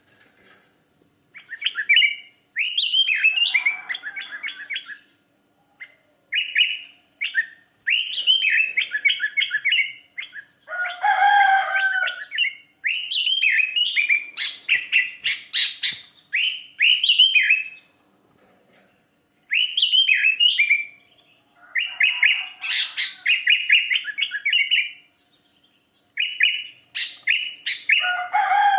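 Sooty-headed bulbul (kutilang) singing in repeated bursts of quick, chirpy whistled phrases with short pauses between them. A lower, coarser call joins in twice, around the middle and at the end.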